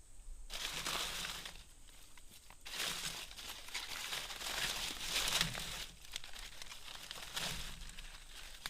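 Crinkling, rustling handling noise in three bouts, the middle one the longest and loudest, like something being crumpled or rubbed.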